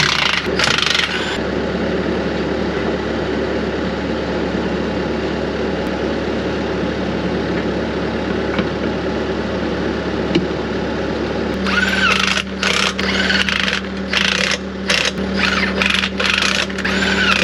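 Engine of an attachment-carrying loader running steadily while it lifts a truck on J-hooks. About twelve seconds in a steady hum joins it, followed by several short stop-start bursts of noise.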